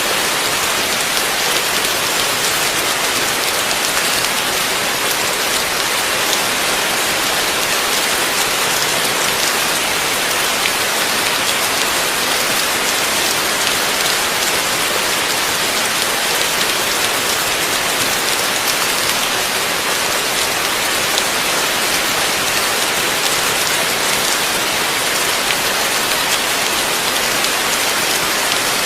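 Heavy rain falling steadily, a dense, even hiss of drops on surfaces with no thunder.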